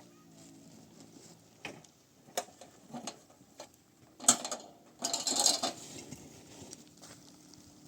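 Scattered knocks and clicks of objects being handled, with a loud sharp knock about four seconds in and a brief scraping clatter just after it.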